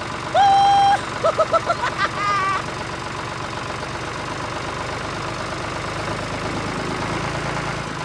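Tractor engine idling steadily, a sound effect rather than the toy's own small motor. Near the start there is one held beep, then a quick run of about five short beeps, then a short wavering squeaky call.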